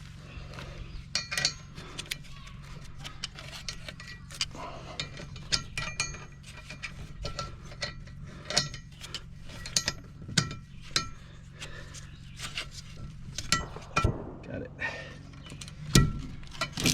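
Irregular metallic clicks and clinks from over-the-tire track links and ratchets being worked as the two ends of a skid steer's traction track are pulled together and connected, over a steady low hum.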